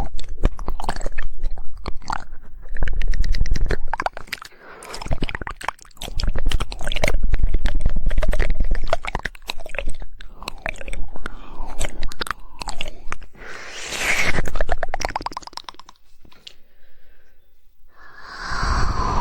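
Close-miked ASMR mouth sounds: rapid wet tongue clicks and smacking in dense runs, with short pauses between runs.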